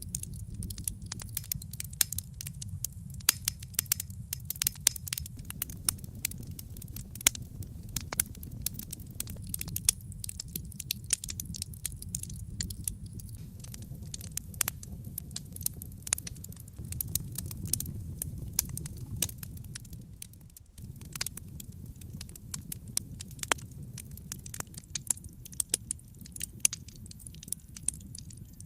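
Wood fire burning in a fireplace, crackling with many irregular sharp pops and ticks over a steady low rumble of flame.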